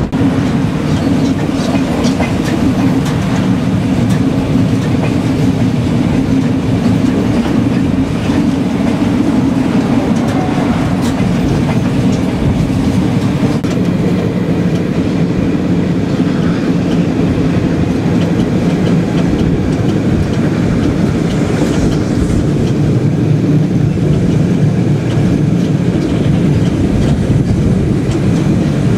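Narrow-gauge passenger train running steadily along the track, heard from aboard a carriage: a continuous rumble of wheels on rails with faint clicking over the rail joints.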